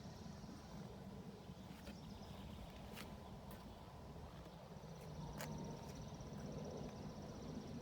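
Faint outdoor background: a low rumble with a high, pulsing insect trill that grows stronger about five seconds in, and a few light clicks.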